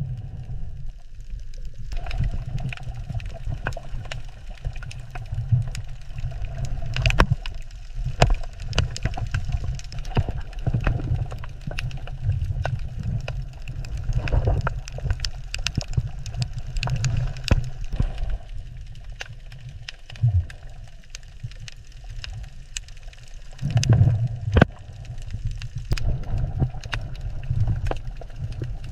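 Underwater ambience: a steady low rumble with many scattered sharp clicks and crackles.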